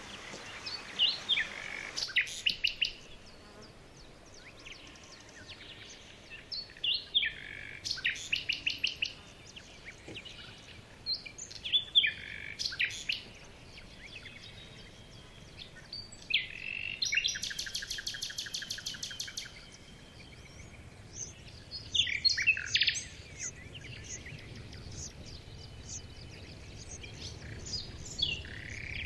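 Wild birds singing in short, high phrases every few seconds, one of them a fast, even trill lasting about two seconds near the middle.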